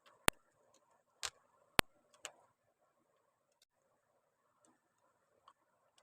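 Plastic Lego pieces clicking as they are handled and pressed together: four sharp clicks in the first two and a half seconds, then a few faint ticks.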